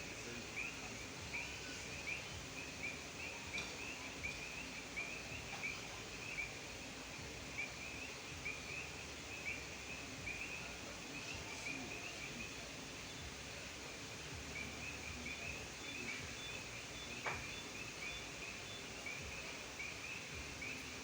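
A chorus of frogs calling: many short, high chirps overlapping in a steady stream, which thins out briefly a little past the middle, over a faint outdoor hiss.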